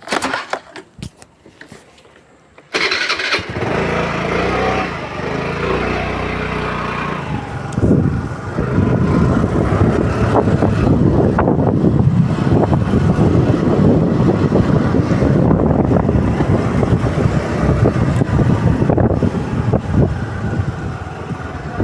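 A few light clicks, then about three seconds in a TVS Jupiter scooter's engine starts and idles. From about eight seconds in it is ridden off, the engine running under way with rushing road and wind noise.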